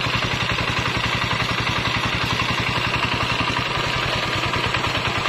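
Kubota 8 hp single-cylinder diesel engine running steadily, freshly repaired after a seized piston, with a fast, even chain of firing knocks. It runs at a fairly high speed.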